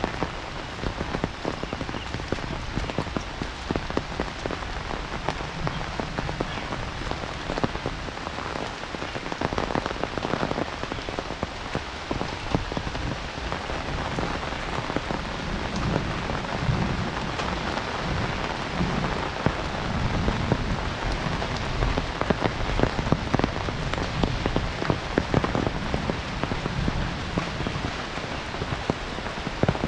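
Heavy rain falling steadily, a dense patter of drops hitting surfaces all around, with some low swells in the second half.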